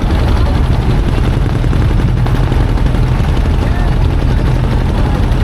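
Motorboat engine running with a steady low drone, with a crowd's voices and faint crackles over it.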